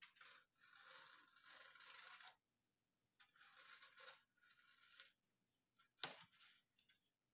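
Faint scraping of a blade cutting along a marked curve in the sheet material of an RC airplane half-wing, in two slow strokes of about two seconds each, with a short sharp click about six seconds in.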